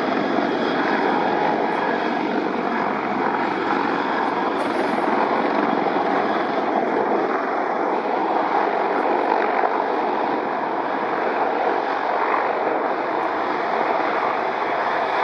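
Sikorsky CH-53K King Stallion heavy-lift helicopter flying, a steady mix of rotor and noise from its three GE T408 turbine engines.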